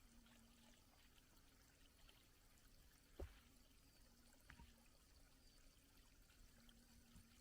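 Near silence: a faint steady hiss with scattered tiny clicks, and a soft knock about three seconds in, then a smaller one a second later.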